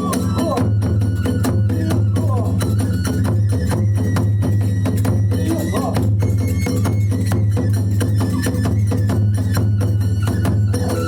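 Kagura hayashi music: drums and small hand cymbals beating a fast, steady rhythm under a bamboo transverse flute playing held and sliding notes.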